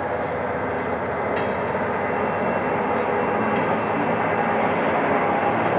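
General Motors GT22CW-2 diesel locomotive passing close as it pulls a passenger train away from the station, its engine working under load, followed by the passenger coaches rolling by on the rails. The noise is steady and grows a little louder, with one short click about a second and a half in.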